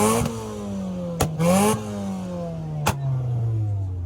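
Car engine revved in two quick blips, each climbing fast with a loud exhaust rasp and falling back slowly, then dropping toward idle near the end. A sharp crack sounds between the blips and another about three seconds in.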